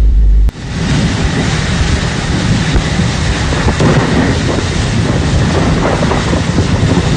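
Storm noise recorded on a phone: a loud, dense rush of wind and rain with a heavy low rumble of gusts hitting the microphone, starting about half a second in after a short deep boom.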